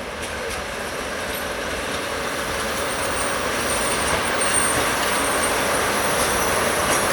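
Hokutosei sleeper express, a diesel-hauled train, running in toward the station with a steady rumble that grows louder. From about four seconds in, faint high squeals join it.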